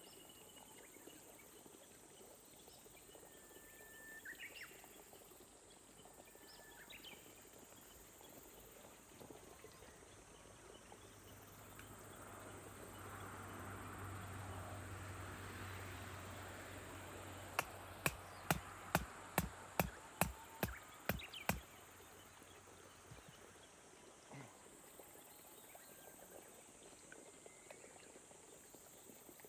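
Rice-paddy ambience in gentle rain: a steady high insect trill with a few short bird chirps. In the middle a low hum swells and fades, and a quick run of about ten sharp clicks, about two a second, stands out as the loudest sound.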